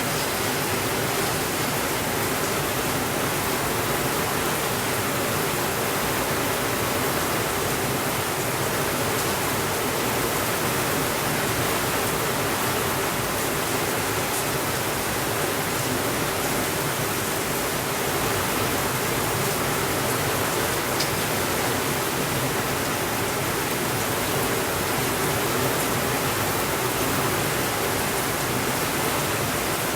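Steady rainfall, an even unbroken hiss with no thunder. A single faint tick comes about two-thirds of the way through.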